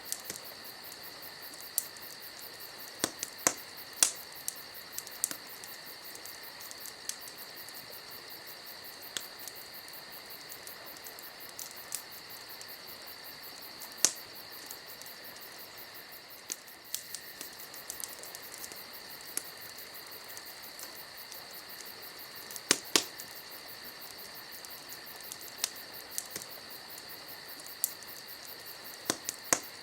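Campfire crackling, with sharp pops at irregular intervals and a few louder snaps scattered through, over a steady high trilling of insects.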